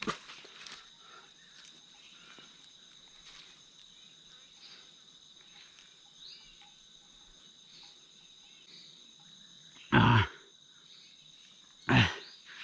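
Steady high-pitched drone of rainforest insects, crickets or cicadas. Two short loud sounds cut in near the end, about two seconds apart.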